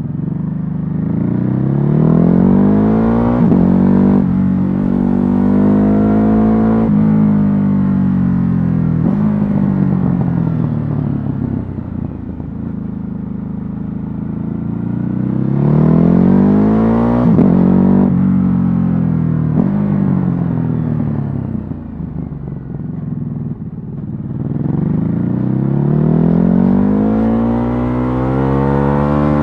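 Stock Ducati Hypermotard 950's L-twin engine under way, accelerating hard with quick upshifts, rolling off so the revs fall, then pulling through the gears again, twice more. There is little wind noise.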